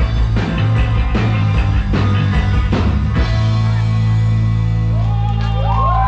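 Live psychedelic rock band with electric guitars, bass and drums playing. The drums hit steadily for about the first half, then stop, and a final chord rings on with sliding, bending notes near the end as the song closes.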